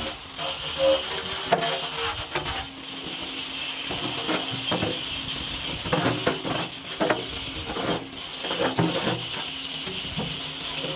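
Sped-up workshop sound of hand work on metal parts: irregular clicks, taps and knocks of tools, several each second, over a steady high hiss.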